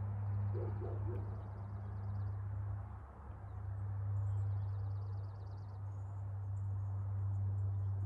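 Small birds trilling faintly in fast runs of repeated high notes, three times, over a steady low hum.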